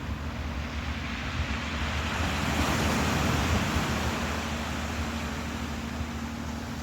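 Ocean waves: the surf noise swells to a breaking wave a few seconds in, then eases back into a washing rush, with low wind rumble on the microphone and a faint steady hum underneath.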